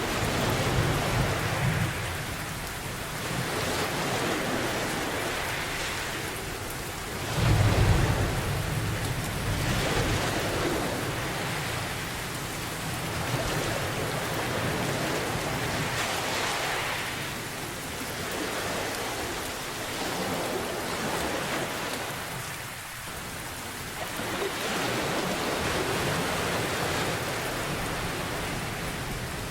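Steady rain storm with low rolls of thunder, the heaviest about seven seconds in, and a rushing that swells and fades every few seconds like ocean waves washing ashore.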